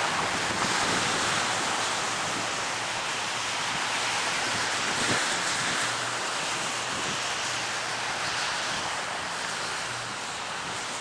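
Downed live power line arcing and burning with a steady rushing hiss, over a low electrical hum.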